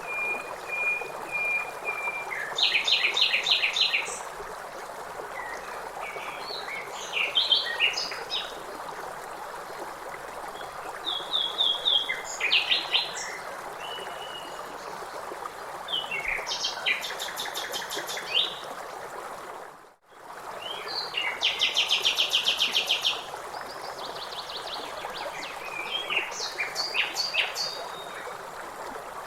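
Songbirds calling and singing in repeated trills and chirps over the steady rush of river water. The sound dips out for a moment about two-thirds through.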